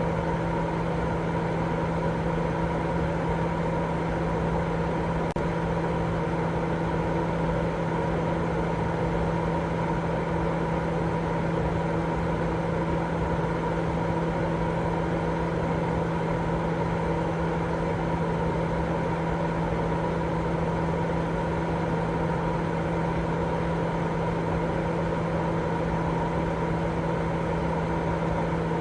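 Continuous white noise for baby sleep: an even, unchanging rushing noise with a constant low hum and a fainter higher steady tone inside it, like a running motor or fan.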